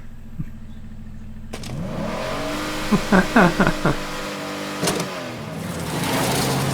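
Car engine running and revving up, its pitch rising about two seconds in, with a few short quick rises and falls around the middle.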